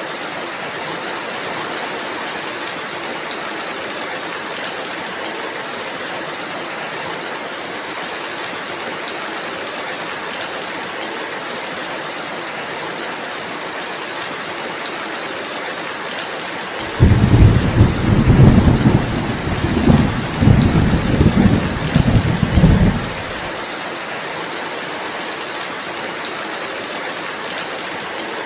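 Steady rainfall hissing evenly. About two-thirds of the way through, a low rumble of thunder starts suddenly and rolls in waves for about six seconds before fading back into the rain.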